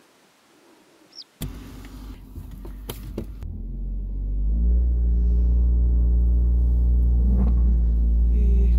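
A single short bird chirp, then, about a second and a half in, a car engine heard from inside the cabin. It builds over a few seconds and then runs steadily and low as the car is towed out of soft sand.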